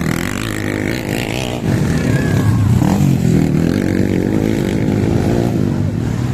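Motorcycle engine running loud and revving, its pitch rising and falling.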